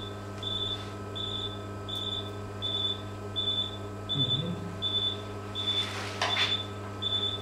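Patient monitor in the operating room beeping steadily, one short high beep about every three-quarters of a second, typical of a pulse tone following the anaesthetised dog's heartbeat, over a steady electrical hum from the surgical equipment.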